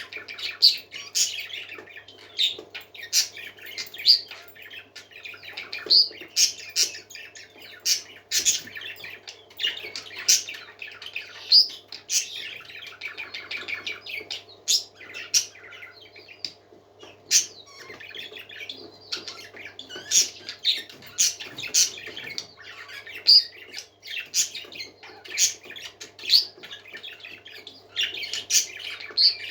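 A flock of parakeets chattering without pause: a constant warbling twitter broken by many sharp, high chirps and squawks.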